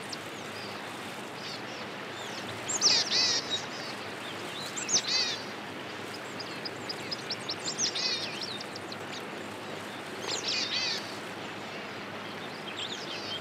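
Small birds chirping in about five short bursts of high, sliding calls over a steady background hiss.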